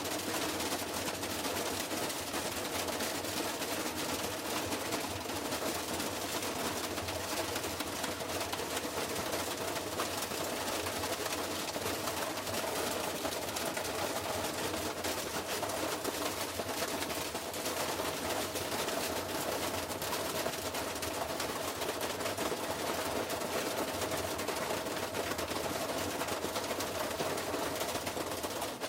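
Washing machine running hard, with continuous rapid rattling and knocking over a steady hum.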